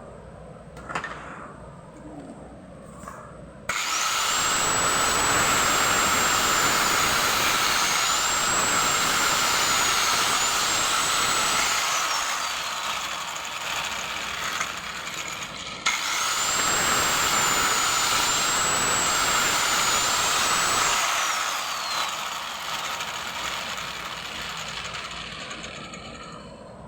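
Small electric power tool, such as a hand drill, running in two long bursts, the first about eight seconds and the second about five, its high whine wavering under load and falling away each time it spins down. A few light knocks come before the first burst.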